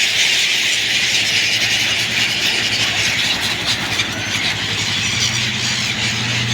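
A flock of birds chattering and squealing continuously in a dense, high-pitched chorus. A low steady hum joins about five seconds in.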